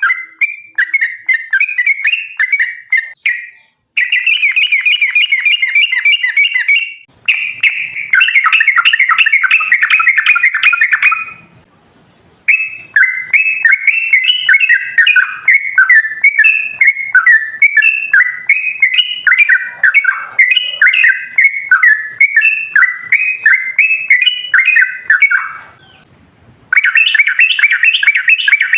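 Yellow-vented bulbul (trucukan) singing loud, bubbling chirped phrases, with fast rattling runs in between and a few short pauses.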